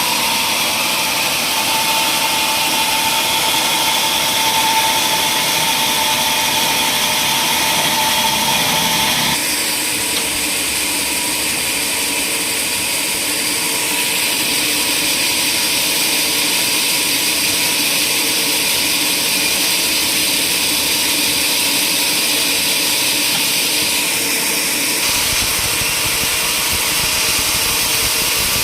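Woodworking machinery running steadily. Its tone shifts abruptly about a third of the way in, and a deep rumble joins near the end.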